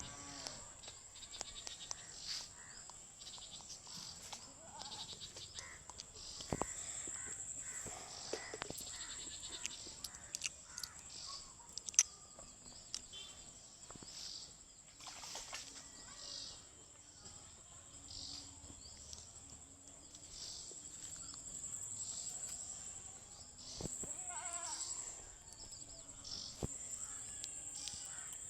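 Rural outdoor ambience: a steady high-pitched drone with scattered sharp clicks and a few short animal bleats, the clearest of them near the end.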